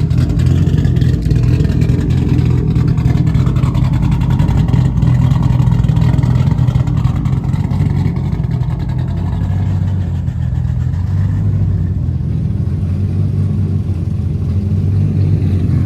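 A car engine running loudly close by, with a slight rise and fall in revs a few seconds in and settling a little after about twelve seconds.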